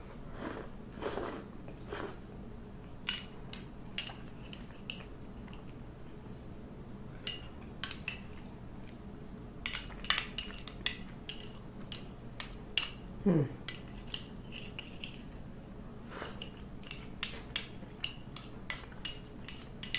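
Eating utensils clicking and clinking against a bowl or plate during a meal, in irregular sharp clinks that come in quicker runs in the second half.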